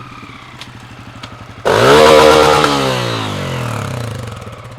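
Dirt bike engine running low, then a sudden loud burst of throttle about halfway through, its pitch and level falling away over the next couple of seconds.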